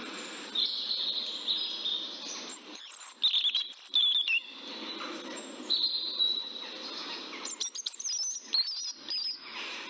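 Birds chirping in short, high, wavering calls now and then, over a steady low background noise.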